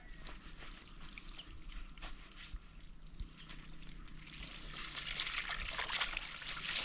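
Water trickling and pouring, with small splashes, growing louder about two-thirds of the way through.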